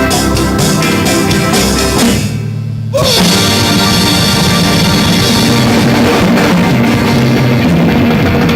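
Live rock band playing with drum kit, bass and electric guitar. About two seconds in the band drops out for a moment, leaving only a low held note, then comes back in at full strength.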